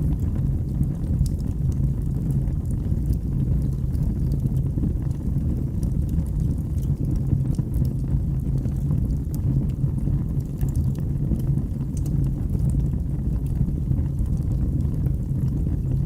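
Birch logs burning in a fireplace: a steady low rumble of flames with frequent small, sharp crackles and pops scattered through it.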